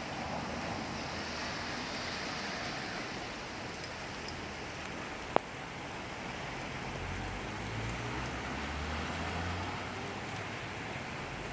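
Steady rain falling, an even hiss, with one sharp click about halfway through and a low rumble in the second half.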